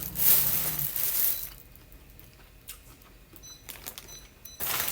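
Takeout food containers and wrappings being handled: a loud crinkling rustle lasting about a second, then small clicks and taps, and another short rustle near the end.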